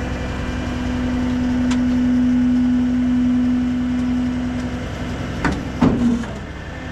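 Tow truck engine running with the steady whine of its hydraulics under load. The whine swells, then stops about five seconds in, followed by two or three sharp knocks.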